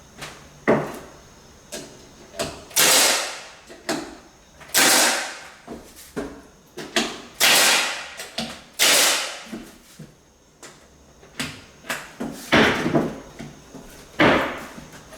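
Hardwood floorboards being installed: a series of about a dozen sharp knocks at uneven intervals, each trailing off over about half a second.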